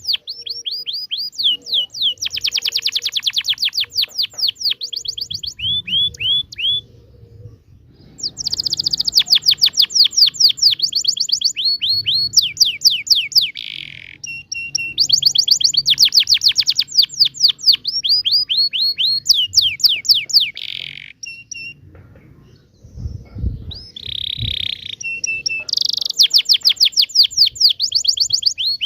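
Domestic canary singing a long song made of rapid rolling trills, each a fast run of repeated falling notes, broken by brief pauses about a quarter of the way in and again about three quarters of the way in.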